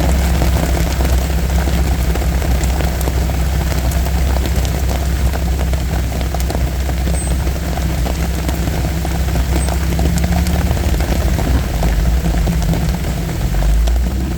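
Off-road 4x4's engine running steadily at low speed, a constant low drone heard from inside the cab, with scattered light ticks and knocks from the trail.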